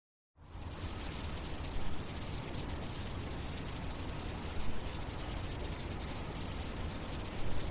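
Steady ambient background: a continuous high-pitched chirring, like crickets, over a low rumble. It starts abruptly out of dead silence about half a second in.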